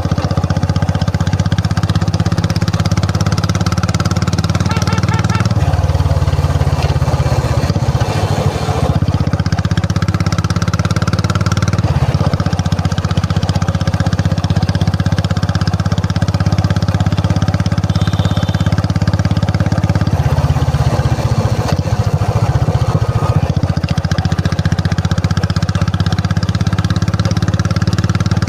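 Royal Enfield Classic 350's single-cylinder engine and exhaust running steadily, its note shifting slightly about six, twelve and twenty seconds in.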